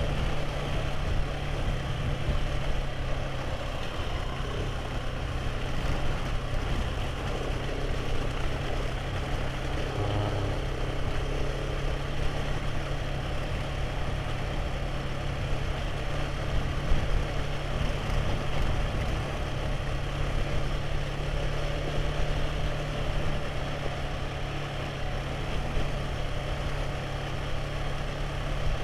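Motorcycle engine running steadily while riding, with a constant low drone and an even wash of wind and road noise.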